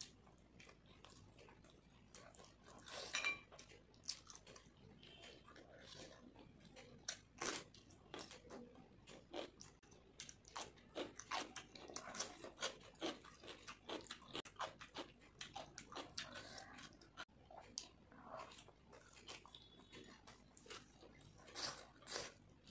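A person chewing a mouthful of chicken curry and fried rice eaten by hand: irregular soft wet clicks of chewing, louder about three seconds in and again near the end.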